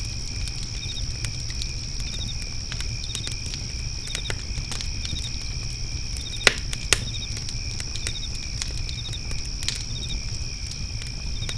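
Wood fire crackling with scattered small pops and two louder pops about halfway through. Beneath it are crickets chirring steadily and a short triple chirp repeating about once a second.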